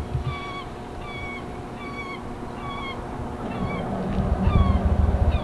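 A bird's repeated short honking calls, about two a second, each dipping slightly in pitch, over a low irregular rumble that grows louder in the second half.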